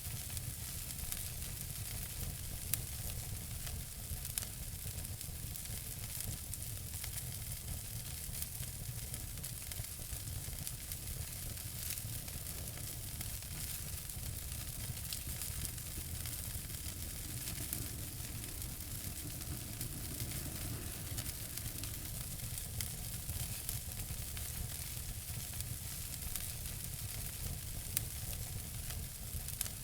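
Wood fire burning in a fireplace: a steady hiss with frequent small crackles and a few sharper pops, over a low rumble of the flames.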